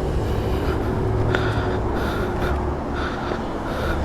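Steady hum of car wash machinery, with a faint pulse repeating about twice a second.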